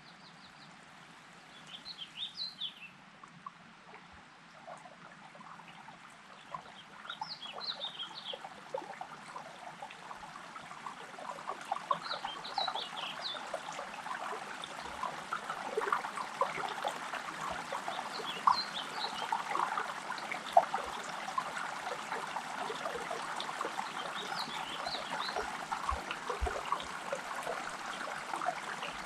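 A songbird sings a short chirping phrase about every five or six seconds over trickling, burbling water that grows steadily louder.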